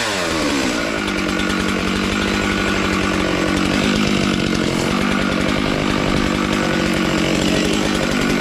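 Chainsaw engine running hard. Its pitch drops at the start, then it holds steady.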